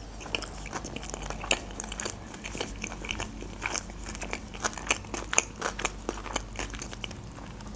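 Close-miked chewing of a mouthful of sushi roll: irregular small wet clicks and soft crunches of the mouth and teeth, several a second.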